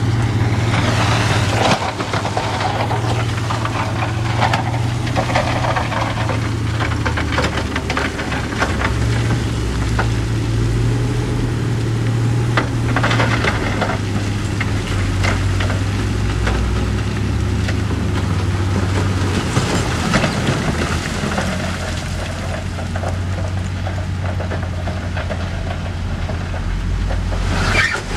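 Heavy diesel earthmoving machinery running steadily, its engine note shifting a few times, with scattered knocks and rattling clatter of rock and steel throughout.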